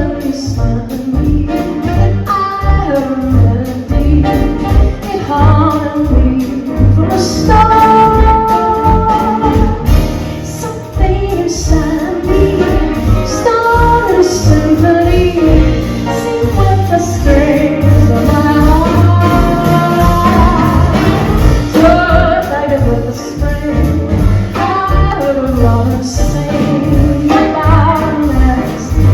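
A woman singing live with band accompaniment, a steady beat underneath and long held notes.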